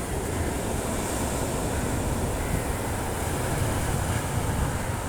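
Sea waves washing steadily on a rocky shore, with wind rumbling on the microphone.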